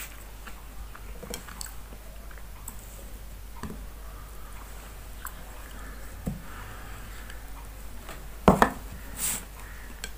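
A person chewing and biting fried chicken and roti, with small clicks and rustles of handling the food. A sharper click comes near the end.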